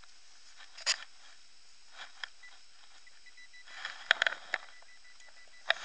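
Steady hiss of heavy rain on the microphone, broken by several sharp rustles and knocks, the loudest clustered about four seconds in. From about the middle there is a faint, broken high beep from the XP Deus metal detector.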